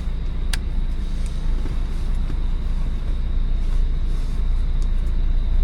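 Steady low rumble of a car heard from inside the cabin, with its engine running, and one sharp click about half a second in.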